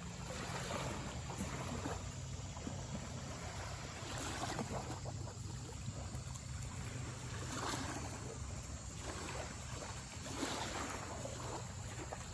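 Water lapping and sloshing against a small boat's hull in swells every few seconds, with wind rumbling on the microphone.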